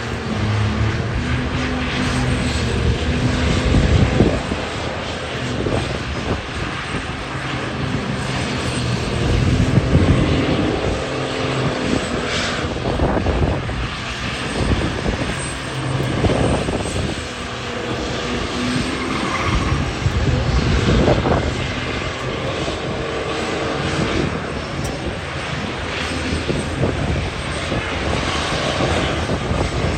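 High-horsepower diesel truck engine noise, swelling and easing again and again as the engines are revved.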